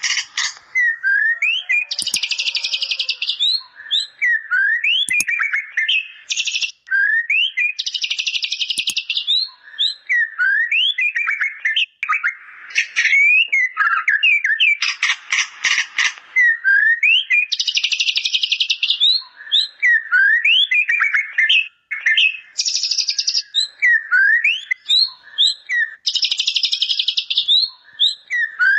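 White-rumped shama singing non-stop, its song filled with learned bar-winged prinia (ciblek) phrases. Quick rising and falling whistled notes alternate with harsh buzzing rattles that come every few seconds.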